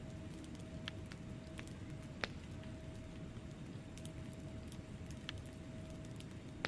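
Wood fire burning in a fireplace: a steady low rumble of flames with scattered crackles and small pops, one sharper pop about two seconds in.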